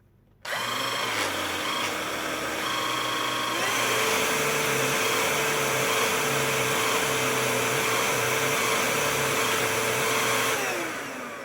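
Silvercrest SHSA 20-Li A1 cordless vacuum cleaner running with its motorized rotating brush attachment: its brushed motor starts up, rises in pitch a little under four seconds in, runs steadily, then winds down near the end.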